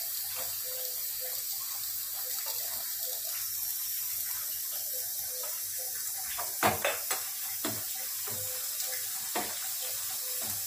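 Garlic, cumin and chopped onion frying in a small steel pan on a gas stove: a steady sizzling hiss. From about two-thirds of the way in, a steel ladle clinks and scrapes against the pan several times as the tadka is stirred.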